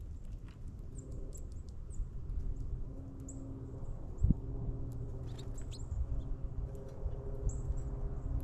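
Small songbirds at backyard feeders giving many short, high chirps, scattered irregularly, over a steady low hum. A single thump comes about four seconds in.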